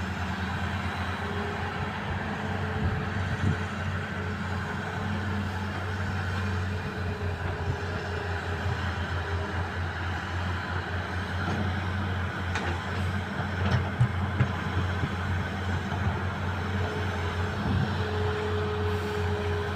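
Hitachi hydraulic excavator's diesel engine running steadily, with an on-and-off higher whine and a few sharp knocks about two-thirds of the way through.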